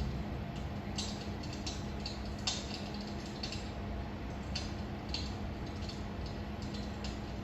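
Wood fire crackling: irregular sharp pops and snaps over a steady low hum, the loudest pop about two and a half seconds in.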